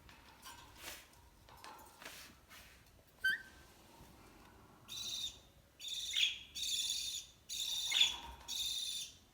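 Young Alexandrine parrot calling: a short chirp about three seconds in, then four harsh, raspy calls in the second half.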